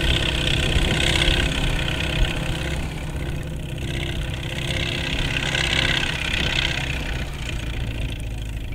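Tractor engine running steadily as it pulls a seed drill sowing the field, with a higher hissing noise that swells and fades twice.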